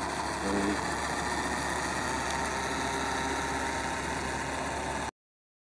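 Engine idling steadily, cutting off abruptly about five seconds in.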